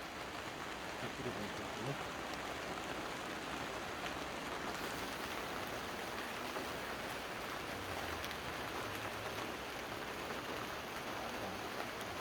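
A steady, even hiss with a few faint ticks scattered through it.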